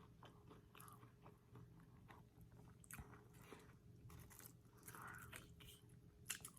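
Faint chewing: soft, scattered mouth clicks and crunches of a person eating fast food, over a low steady hum.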